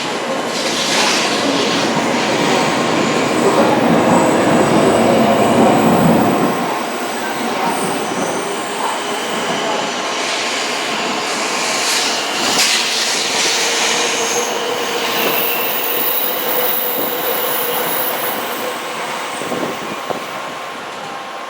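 Tokaido Shinkansen train moving along the station platform. A loud running rumble builds for the first few seconds and drops off sharply about six seconds in, followed by steady whining and high squealing tones.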